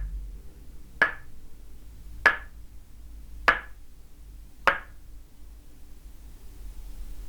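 Tok sen massage: a wooden mallet striking a wooden peg held against the body, four sharp knocks about a second and a quarter apart in an even rhythm, stopping a little before the end.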